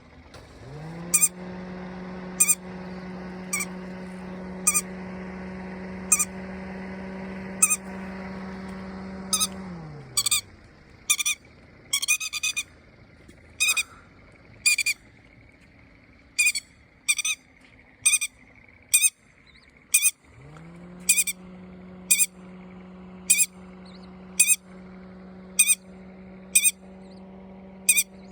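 A bird giving short, sharp, high calls, repeated about once a second with a brief quick run of them near the middle. Under the first and last thirds runs a steady low hum that rises in pitch as it starts and falls away as it stops.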